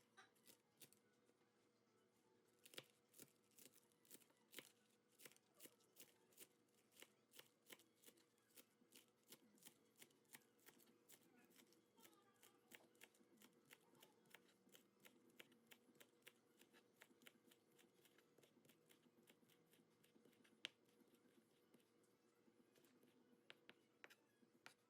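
Faint sharp clicks, about two or three a second, thinning out near the end, over a low steady hum.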